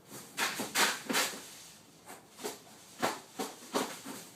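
A string of sharp knocks and clatters at uneven intervals, several close together in the first second and a half and more later on.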